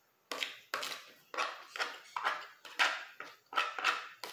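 Close-up mouth sounds of a person chewing a mouthful of food, wet smacks repeating about two to three times a second.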